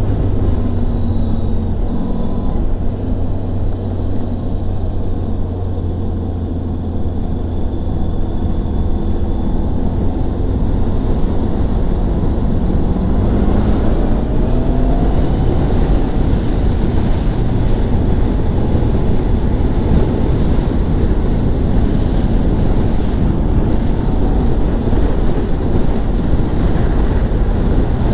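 Honda CBR650F's inline-four engine running under way and rising in pitch about halfway through as the bike speeds up, with steady wind noise on the microphone.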